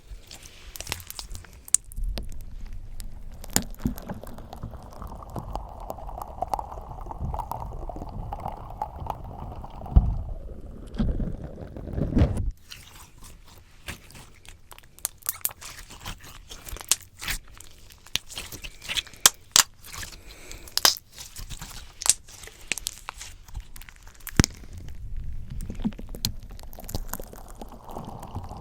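Slime squished and kneaded directly on a microphone: a close, dense squelching for the first half, then a run of many sharp sticky pops and crackles as it pulls away from the mic, and squishing again near the end.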